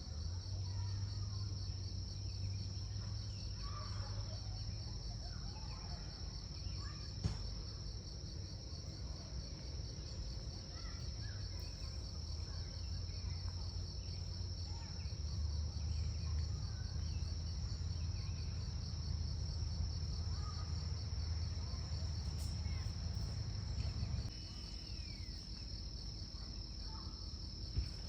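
Steady chorus of insects, a high continuous pulsing trill, over a low rumble that eases off a few seconds before the end. There is a sharp click about seven seconds in and another near the end.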